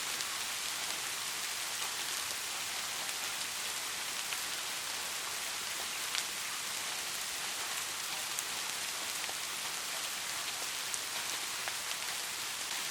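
Steady rainfall: an even hiss of drops hitting surfaces, with scattered louder individual drop ticks, one more distinct about six seconds in.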